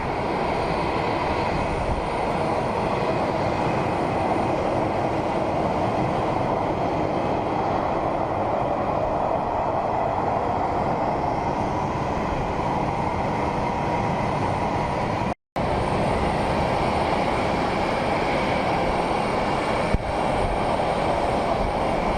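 Jet aircraft engines running with a steady, even noise that swells a little midway through. The sound cuts out for an instant about fifteen seconds in.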